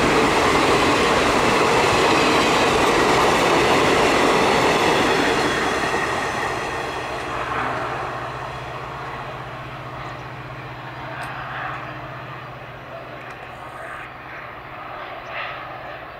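Passenger coaches of an Indian Railways express train running past on the rails. The wheel and rail noise is loud at first and fades from about five seconds in as the last coach goes by and draws away, leaving a steady low hum.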